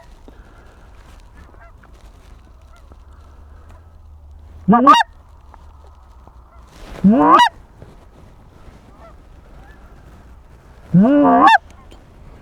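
Goose call blown right by the microphone, imitating lesser Canada geese to a flock overhead: three loud honks, each sweeping upward in pitch, about five, seven and eleven seconds in, the last a quick double note. Fainter honks sound in the background between them.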